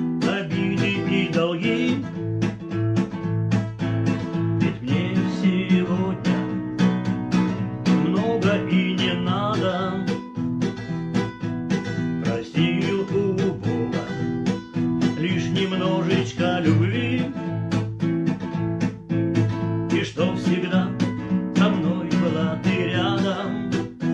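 Acoustic guitar strummed through an instrumental passage of a song, with a wavering melodic line coming back every few seconds over the chords.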